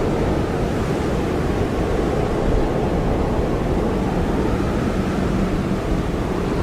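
Blizzard wind blowing in a steady, low, rushing roar with no gusts or breaks.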